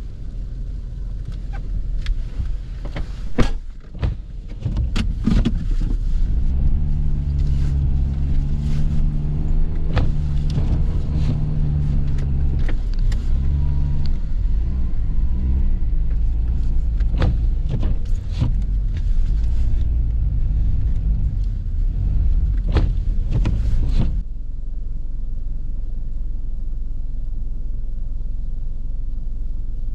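A vehicle engine running steadily, with scattered knocks and clicks over it; about 24 seconds in the sound changes suddenly to a plainer, even low rumble.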